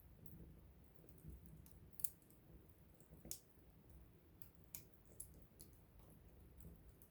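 Wood campfire crackling softly: scattered small snaps and pops, with two sharper pops about two and three seconds in.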